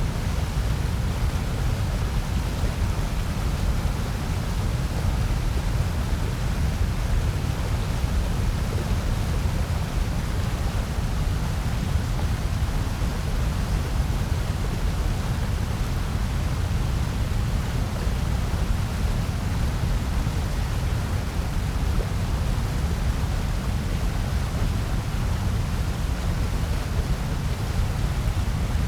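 Steady electronically generated noise: an even, unchanging hiss with most of its weight in a deep low rumble.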